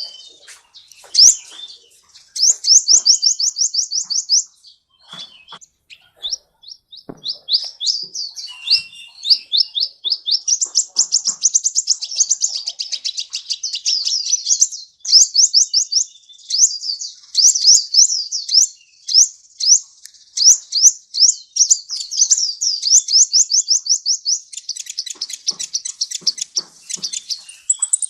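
Sunbird ('kolibri') singing: long, rapid, high-pitched trills of repeated sweeping notes, about ten a second, in runs of a few seconds with brief gaps.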